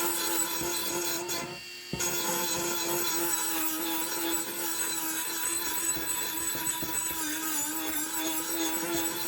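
A power tool running steadily with a constant hum over a rubbing hiss, working on the piece. The sound drops away briefly about one and a half seconds in, then comes back.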